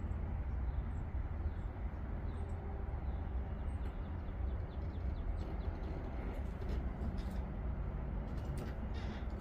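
Steady low outdoor background rumble with faint bird chirps, and a few light clicks and knocks in the last few seconds.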